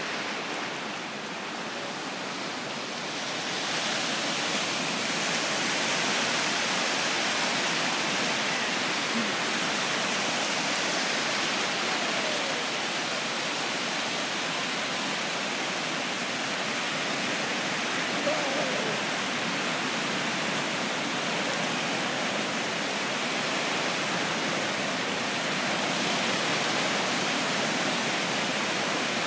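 Steady rushing wash of ocean surf breaking and running up the beach, an even noise with no distinct events.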